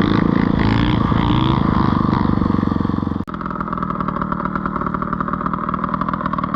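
Dirt bike engine running, a rapid pulsing note; about three seconds in the sound cuts off abruptly and a quieter, differently pitched engine sound carries on.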